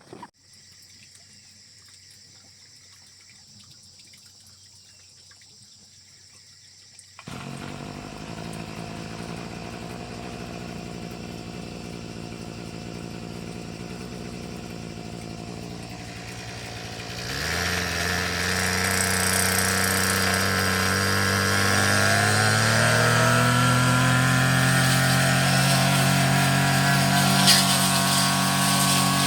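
The small petrol engine of a grass cutter starts about seven seconds in and runs steadily at idle. About ten seconds later it is throttled up: the pitch rises over a few seconds, then holds at high speed for cutting.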